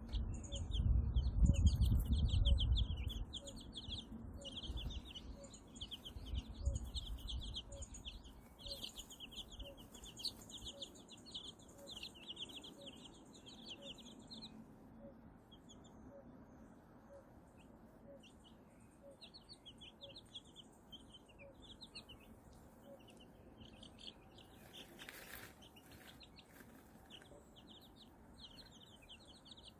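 A brood of young Silkie chicks peeping in quick, high-pitched runs of chirps, pausing briefly about halfway through and then starting again. A low rumble sounds in the first few seconds.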